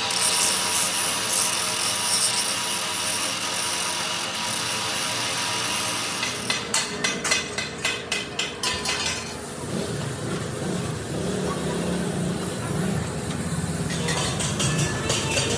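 Workshop power-tool noise: a steady hiss, then about a second past the middle a quick run of sharp knocks, then a lower steady rumbling run with a few more knocks near the end.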